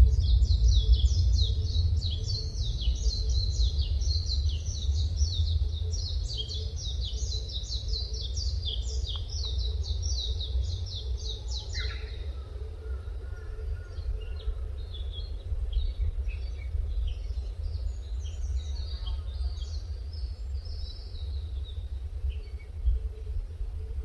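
Small songbirds calling: a fast, continuous run of high chirps for about the first twelve seconds, then sparser, scattered short calls. A steady low rumble runs underneath throughout.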